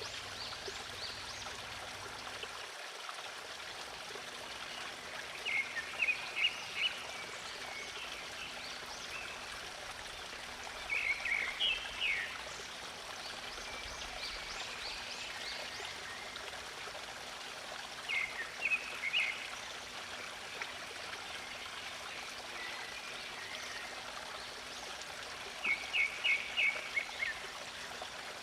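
A stream of water flowing steadily. A songbird calls over it four times, each time a quick run of short high notes lasting about a second.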